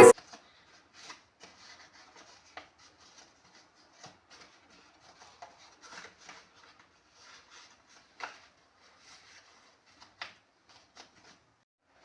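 Faint rustling and crinkling of paper handled by hand, with scattered soft rubs and small clicks and two sharper crinkles about eight and ten seconds in.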